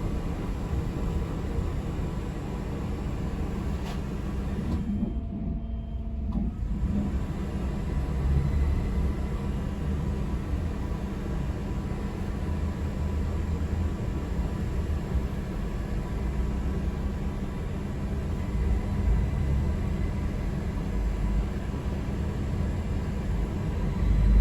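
Steady low rumble of a moving public-transport vehicle, heard from inside the passenger cabin.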